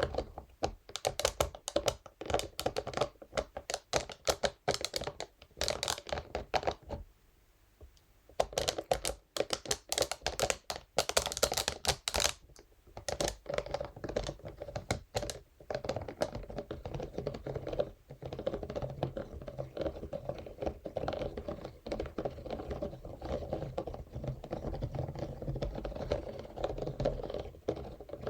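A scalp massage brush's bristles rapidly tapping and scratching on a surface, a quick run of close-up clicks. It pauses briefly about seven seconds in, and later settles into a denser, more even scratching.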